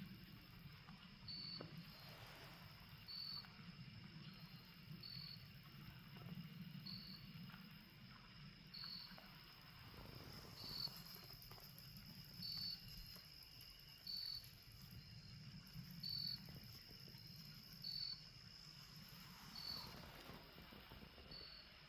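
A cricket chirping steadily, one short high chirp about every two seconds, over a faint even rain-like hiss coming from the burnt forest.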